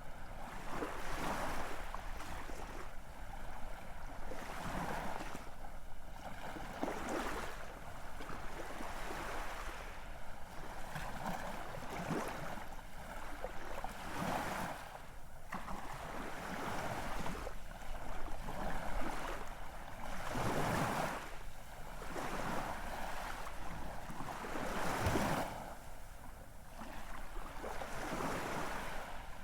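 Ocean waves washing in, a continuous rush of surf that swells and eases every second or two, with a few bigger surges.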